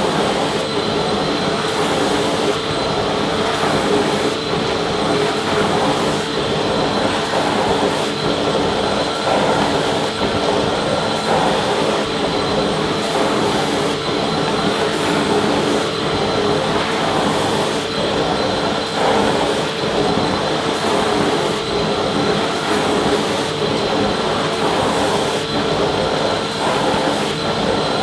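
Vacuum cleaner running steadily: a continuous motor whine and airflow rush with a constant hum.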